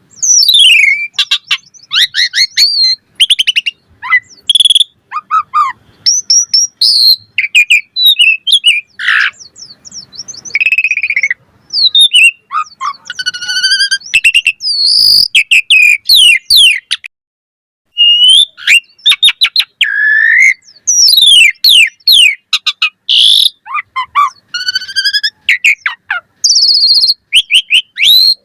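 Asian pied starling (jalak suren) singing a long, varied song of clear whistles, rising and falling glides, rapid rattling note series and harsh chirps, delivered in quick phrases with a pause of about a second just past the midpoint.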